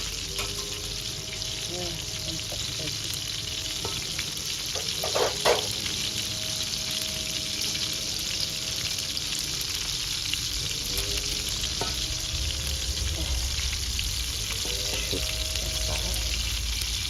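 Food frying in hot oil, a steady sizzle, with a brief clatter of knocks about five seconds in.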